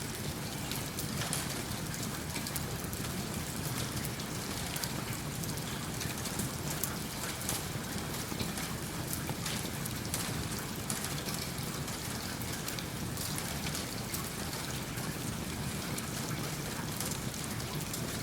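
Steady rain, with many small sharp crackles scattered through it from a wood fire in a fireplace.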